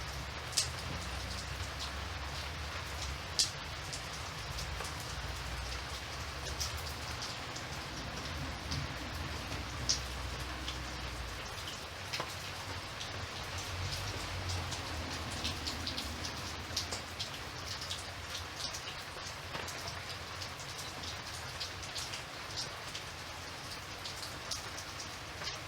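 Steady rain with single drops ticking here and there. A low rumble runs underneath and stops about halfway through.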